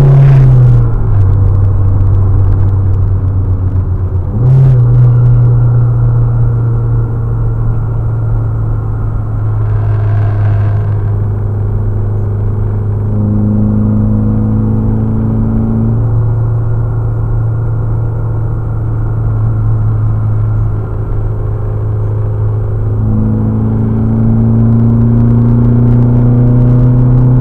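2008 Chevrolet Cobalt's 2.2-litre four-cylinder engine running steadily, its pitch stepping down about a second in and back up about four and a half seconds in.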